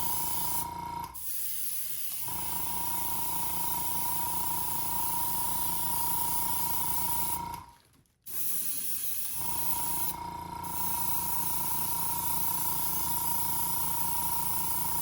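Airbrush spraying watered-down paint in a steady hiss with a thin whistle-like tone, the air stopping and starting again briefly about a second in and cutting out for a moment around eight seconds in.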